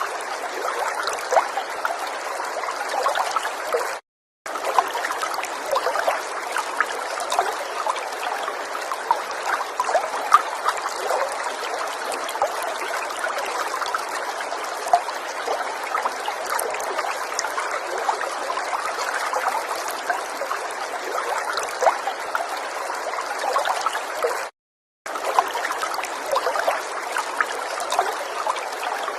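River water flowing and trickling over stones: a steady babble with many small splashes and bubbles. It cuts out to silence twice for a moment, about 4 seconds in and again near the end.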